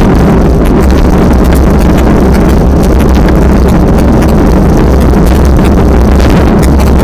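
Strong wind buffeting the microphone: a loud, steady low rumble with a hissing wash above it.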